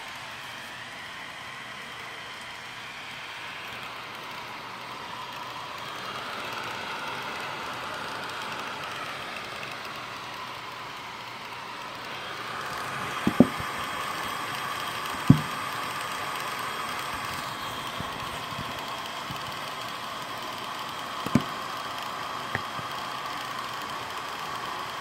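Razer Blade Pro laptop cooling fans running with a steady whoosh and a whine that drifts in pitch and grows louder about halfway through: the massive fan noise fault that a repair did not cure. A few sharp clicks come in the second half.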